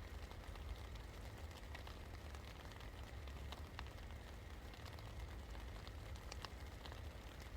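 Steady rain falling, with scattered individual drops ticking on a hard surface over a constant low rumble.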